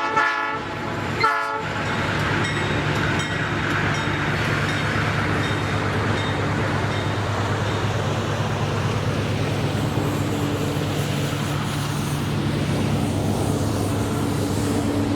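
Freight train locomotive sounding two short horn blasts about a second apart, then its engine running with a steady drone as the train moves along the track.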